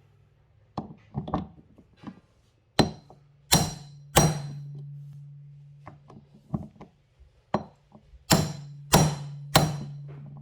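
Hammer striking a hand impact driver with a Phillips bit to break loose stator screws: a few light taps, then two sets of three hard ringing metallic blows.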